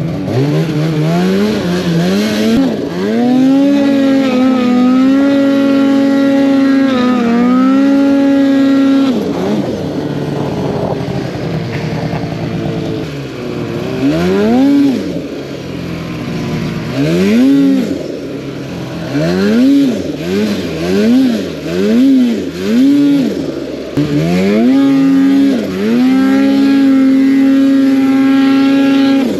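Snowmobile engine revving under load. It climbs to a high pitch and holds it, drops back, then rises and falls in a string of quick rev blips about one a second, and holds high again near the end.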